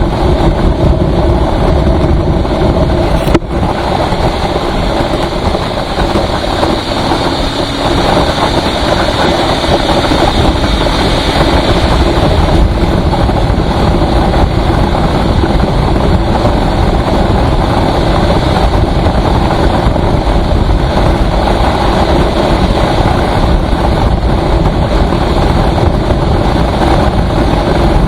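Steady, loud rush of wind and road noise from a vehicle travelling at speed on a highway, with an engine underneath. A single sharp click about three seconds in.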